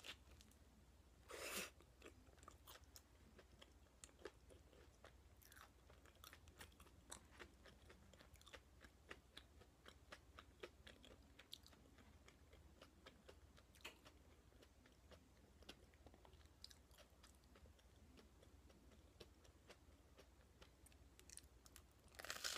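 Quiet, close-miked chewing of potato-salad toast: soft wet chewing with small crunches of the toasted bread, and louder crunches about a second and a half in and again near the end.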